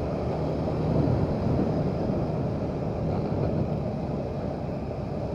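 Motorcycle being ridden along a road: engine running steadily under road noise, with some wind on the microphone.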